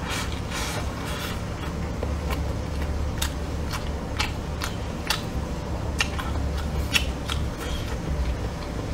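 Close-miked chewing of a mouthful of stir-fried dried tofu and meat: wet mouth clicks and smacks at irregular intervals, over a steady low hum.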